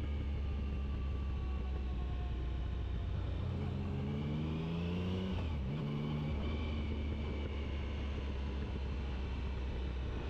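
Motorcycle engine running at steady road speed. About halfway through, the revs climb for a couple of seconds, then drop at a gear change and settle back to a steady note.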